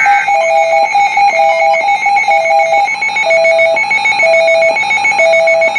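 Electronic weather-alert attention tone: a fast-pulsing high beep overlaid with a lower beep repeating about once a second, sounding ahead of a severe thunderstorm warning message. It cuts off abruptly at the end.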